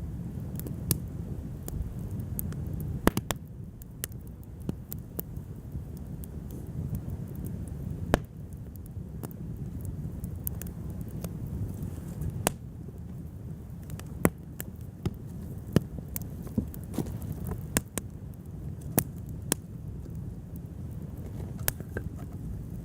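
Wood fire burning, the logs crackling with irregular sharp pops over a low steady rumble.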